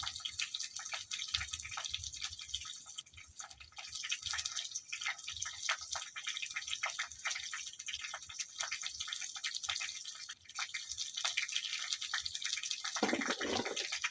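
Onions frying in oil in a pan over a wood fire: a steady high hiss with irregular crackling pops.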